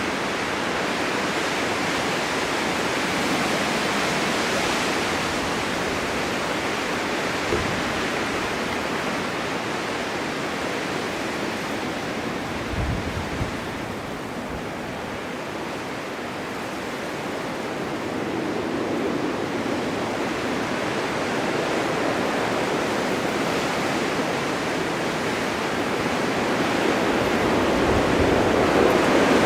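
Blizzard wind driving snow across a winter mountain: a steady rushing noise that swells and eases, with a couple of brief low bumps, growing louder near the end.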